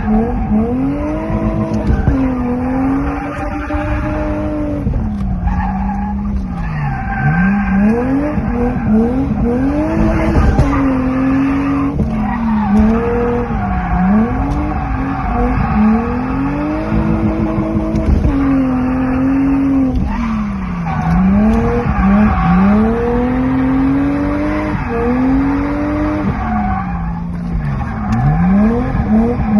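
BMW 323ti Compact's 2.5-litre straight-six revving hard and falling back again and again every two or three seconds while the car drifts, with tyres squealing as it slides. Heard from inside the car.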